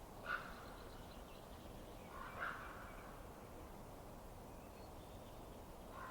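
Steady low hiss of a wood fire, broken by two short bird calls, one just after the start and one about two and a half seconds in, with a fainter call near the end.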